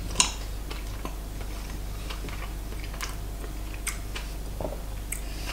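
A person chewing a piece of raw tuna sashimi: scattered small clicks and ticks from the mouth, irregular and a second or so apart, over a steady low hum.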